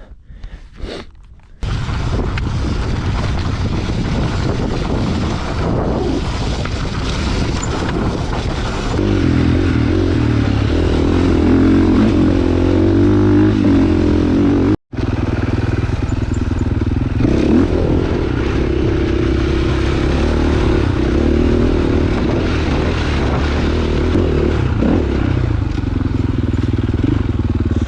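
Dirt bike engine running steadily as the bike is ridden along a trail. It comes in abruptly about a second and a half in, grows stronger about a third of the way through, and drops out for an instant near the middle.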